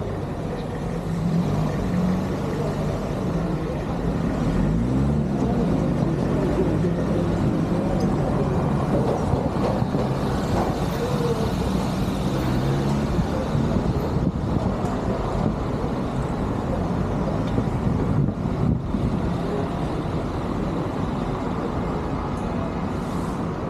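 Motor vehicle engine running under way, its pitch rising and falling as it speeds up and eases off, over steady road and wind noise.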